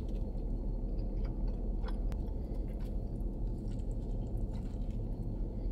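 A man chewing and biting into a sticky glazed chicken wing, with a few faint wet mouth clicks, over a steady low hum inside a car cabin.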